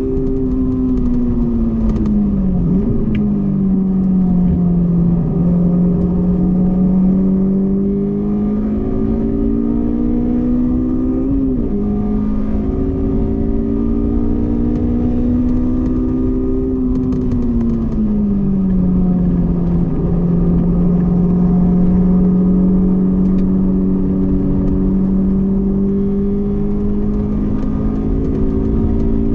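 Honda S2000 four-cylinder engine running hard on a race track. Its pitch climbs slowly and drops off several times as the gears change, and holds steady between changes.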